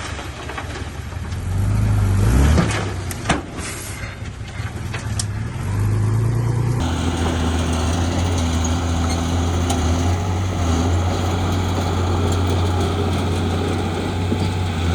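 Heavy diesel construction machinery running with a steady low engine drone, and a sharp knock about three seconds in. The sound changes abruptly about seven seconds in and then holds steady.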